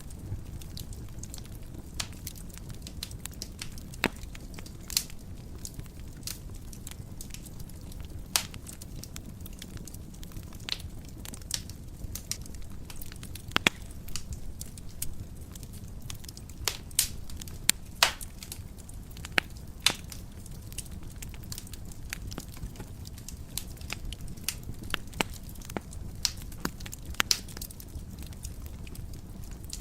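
Fire burning in a fireplace, crackling with irregular sharp pops over a steady low rumble; the pops come thickest in the middle.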